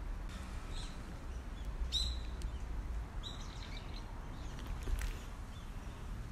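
A small bird chirping, about three short high chirps in the first half, the strongest about two seconds in, over a steady low outdoor rumble.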